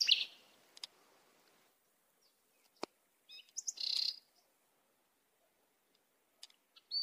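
Faint, scattered high-pitched bird chirps: a short burst right at the start and a cluster about four seconds in, with a single sharp click a little before that.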